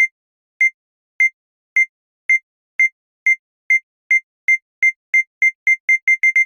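Short, high electronic beeps at one steady pitch, repeating and speeding up from under two a second to about six a second near the end.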